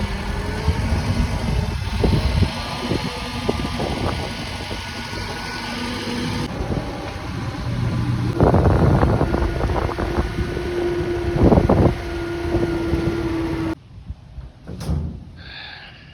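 An engine running steadily with knocks and rattles over it. It cuts off abruptly about fourteen seconds in, followed by a single click.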